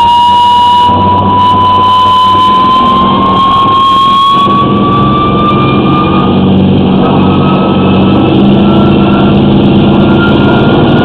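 Hydro-jetter running at high pressure to cut a blockage in a sewer line: a steady engine drone under a whine that rises slowly in pitch and jumps higher about six seconds in.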